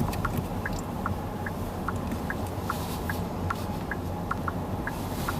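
Steady low road and tyre rumble inside the cabin of a Qiantu K50 electric car on the move, with no engine note. Through it runs a regular light tick, about two to three times a second.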